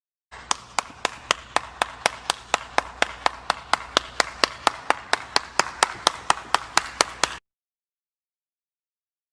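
Steady hand clapping, about four claps a second, which stops abruptly after about seven seconds.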